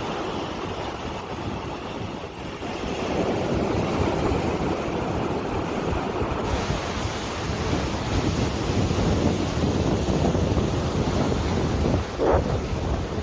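Rough sea surf washing in, with heavy wind buffeting the microphone. A short higher-pitched sound comes near the end.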